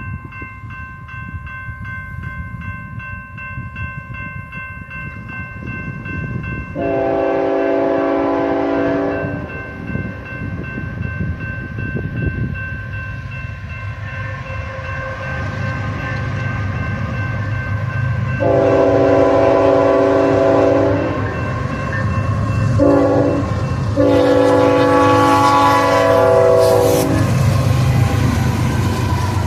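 Horn of a GE Evolution-series diesel locomotive leading a manifest freight, sounded in the grade-crossing pattern: long, long, short, long, as the train rumbles in. A steady high ringing sounds underneath.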